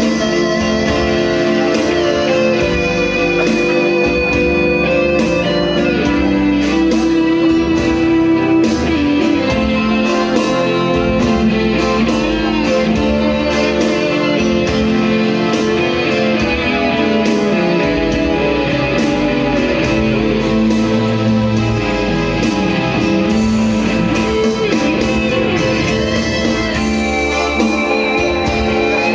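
Guitar playing the instrumental opening of a blues song.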